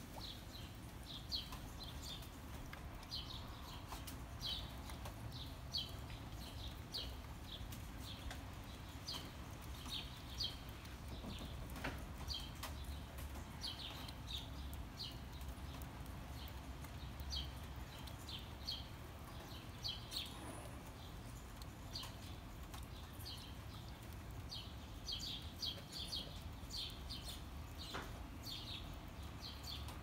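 A small bird chirping: short, high chirps, one to a few at a time, repeating every second or so, over a steady low background rumble.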